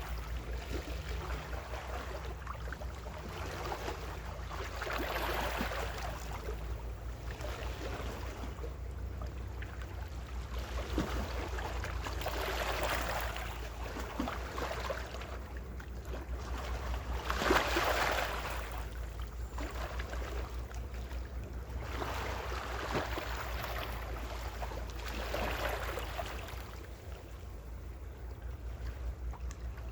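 Small ocean waves breaking and washing on the shore, swelling every few seconds, the biggest about halfway through, over a steady low rumble.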